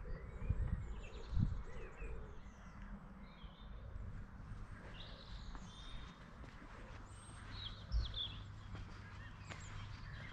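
Small birds chirping and calling here and there over a faint outdoor background. A few low thuds come near the start and once about eight seconds in.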